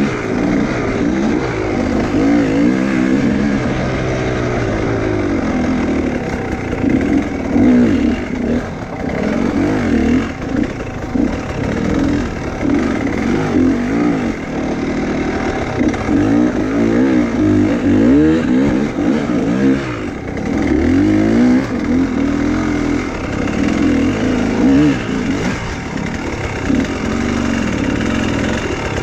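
Enduro motorcycle engine revving hard and unevenly, its pitch rising and falling every second or two as the throttle is worked over rough off-road ground.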